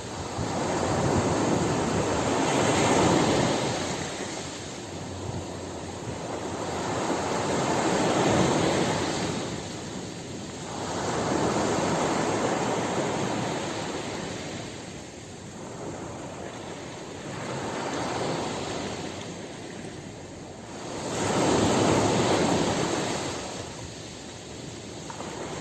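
Ocean surf, waves washing in one after another, swelling and ebbing about five times, every four to six seconds.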